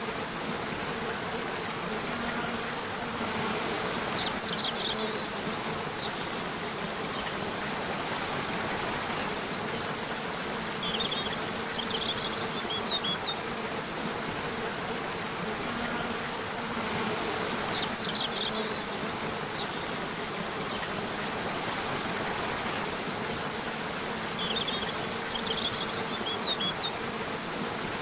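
Bees or similar insects buzzing steadily, a wavering low hum over an even hiss. Short high chirps come in small clusters about every six or seven seconds.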